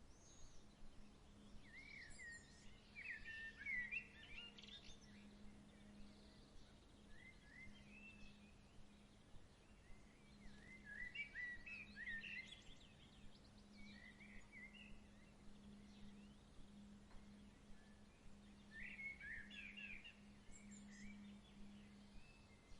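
Faint birdsong: three short bouts of quick chirps and trills, over a soft even background hiss and a faint steady low hum.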